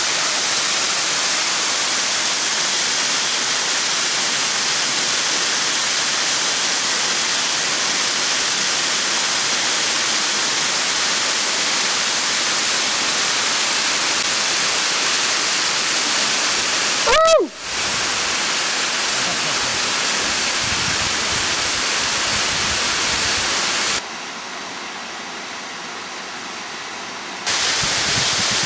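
Steady, loud rush of a waterfall. About two-thirds of the way through a brief high cry bends in pitch over the rush, and near the end the rush turns quieter and duller for a few seconds before coming back at full strength.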